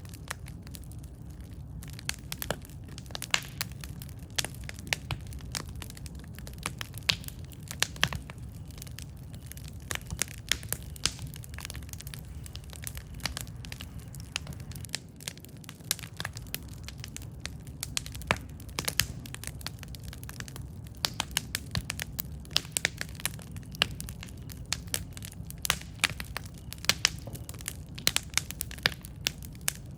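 Wood fire crackling: irregular sharp pops and snaps, some much louder than others, over a steady low rumble of the flames.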